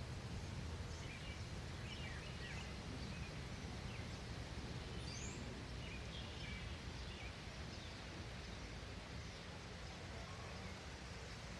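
Faint outdoor ambience: a steady low rumble with scattered short, high bird chirps and calls, more of them in the first half.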